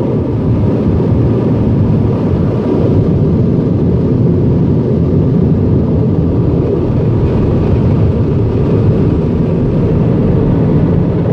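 Automatic car wash air dryers blowing steadily against the car, heard from inside the cabin as a loud, even rush of air.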